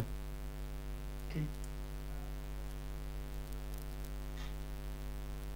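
Steady electrical mains hum, a low buzz with many evenly spaced overtones, picked up by the recording chain of the microphone, with a couple of faint brief noises.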